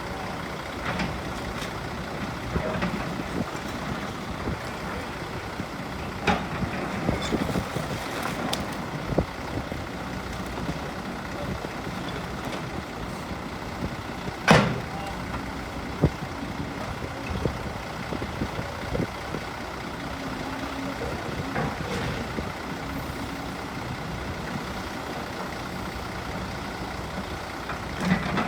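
Heavy machinery running steadily during demolition of flood-damaged buildings, with scattered knocks and crunches and one sharp, loud crash about halfway through.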